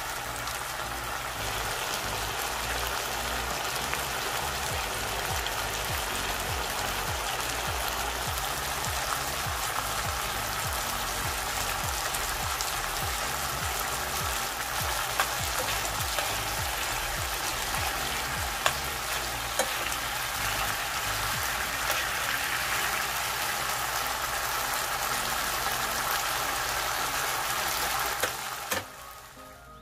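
Squid stir-fry in a thick chilli sauce sizzling and bubbling in a pan, a steady hiss with scattered pops. It cuts off near the end.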